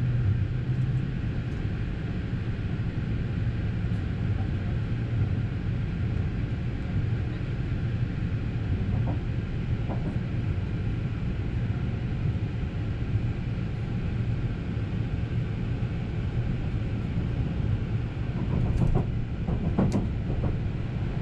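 Steady running noise of the Haruka limited express electric train heard from inside the carriage: an even low rumble of wheels on rail, with a few faint clicks about halfway and near the end.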